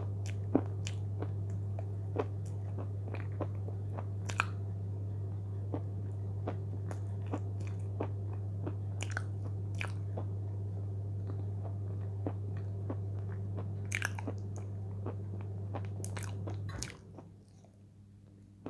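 Close-up chewing of chips and thick cream: many short wet mouth clicks and smacks with light crunching. A steady low hum runs underneath and cuts off near the end.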